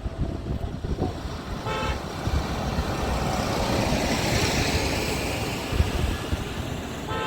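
Tractors driving past with engines running, and a short horn toot about two seconds in and another near the end.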